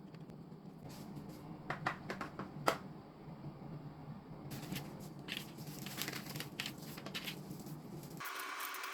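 Kitchen handling sounds during food preparation: a few light clicks, then crinkling and rustling from about halfway through, like packaging or wrap being handled.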